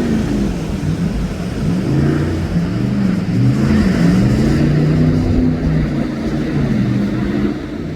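Jet boat engine on the river, its pitch rising and falling again and again as the boat turns and loops, fading slightly near the end.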